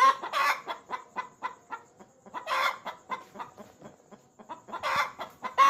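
Hen clucking rapidly, several short clucks a second, broken by a few louder cackling calls, the kind of call a hen makes after laying an egg.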